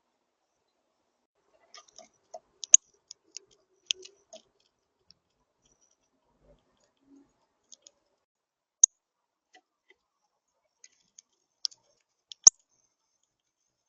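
Northern cardinal pecking and cracking seeds at a feeder: irregular sharp clicks and taps of beak on seed and feeder. The loudest clicks come at about three, nine and twelve seconds in.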